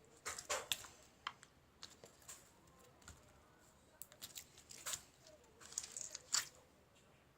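Scattered sharp clicks, taps and crinkling rustles of small objects being handled at close range, irregularly spaced, the loudest one a little past six seconds in.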